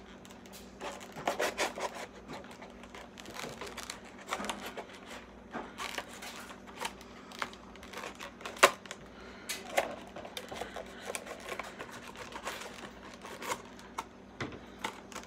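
Plastic packaging of a diecast model car being handled and opened by hand: irregular clicks, taps and crackles of plastic, with one sharper snap about two-thirds of the way through.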